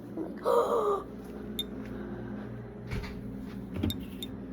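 Rummaging through stored things: a short squeal with a bending pitch about half a second in, then a few light knocks and clicks.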